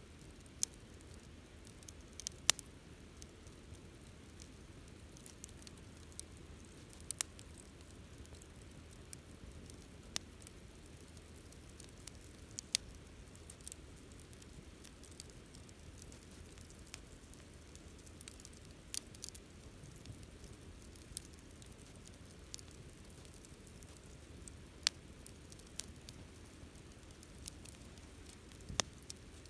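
Campfire burning, with a low steady hiss and irregular sharp crackles and pops from the burning wood, roughly one every second or so.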